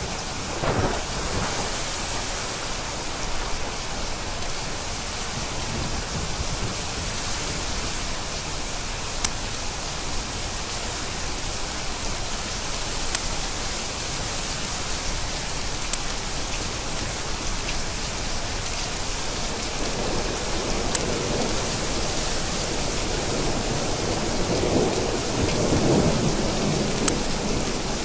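Steady heavy rain with thunder rumbling, the longest roll building up about two-thirds of the way through and fading near the end, and a few sharp drip taps over the rain.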